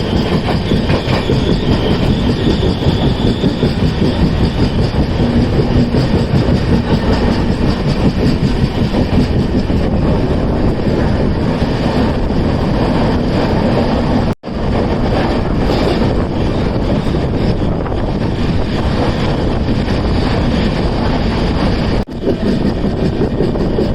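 Passenger train running down the ghat toward the plains, heard from inside a non-air-conditioned coach: a loud, steady rumble of wheels on rails. The sound cuts out abruptly twice, briefly, about 14 and 22 seconds in.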